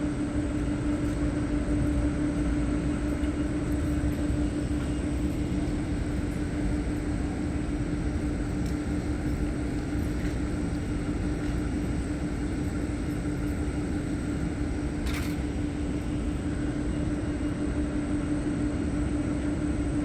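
A steady low mechanical rumble with a constant hum, unchanging throughout, and a brief faint click about fifteen seconds in.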